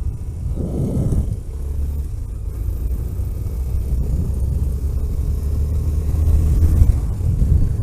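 Road vehicle driving, a steady low engine and road rumble, with a brief louder surge about a second in.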